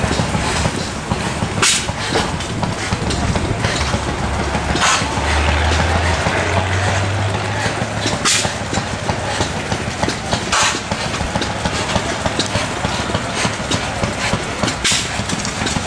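Vintage tractor engine idling steadily, with a few short, sharp bursts of noise spaced a few seconds apart.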